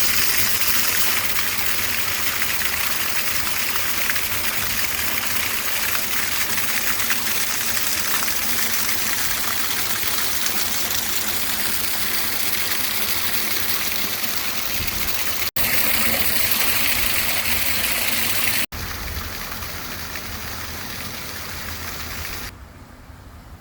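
Steady rush of flowing water. It breaks off sharply twice, about two-thirds of the way through and again three seconds later, then drops quieter in the last second.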